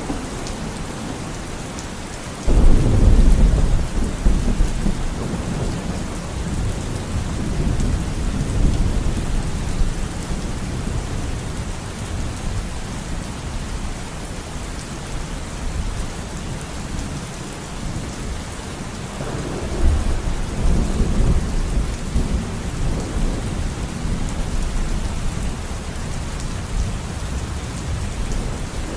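Steady rain with thunder: a sudden loud clap about two and a half seconds in that rumbles away over several seconds, and another rolling rumble about two-thirds of the way through.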